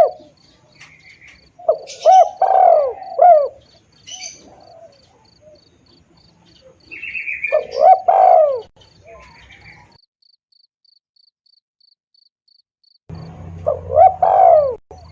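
Spotted dove cooing in three short phrases of arched, low notes, with a steady high chirping of about three pips a second underneath. The sound drops out for a few seconds about two-thirds of the way through, then a low hum and another coo phrase come in.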